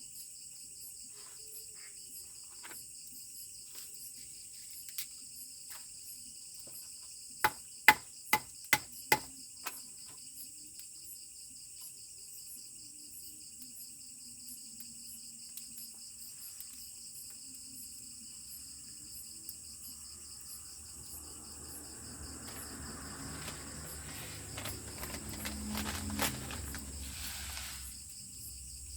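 Steady high-pitched chorus of insects chirring, with a quick run of five sharp knocks about eight seconds in. Near the end a louder rustling, scraping spell builds and fades.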